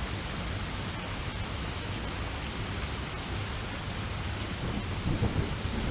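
Steady rain falling, with a low thunder rumble swelling about five seconds in.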